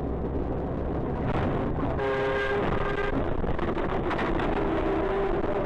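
Car driving, with steady road and engine noise. About two seconds in, a steady tone with several evenly spaced pitches sounds for about a second, and a fainter steady tone sounds near the end.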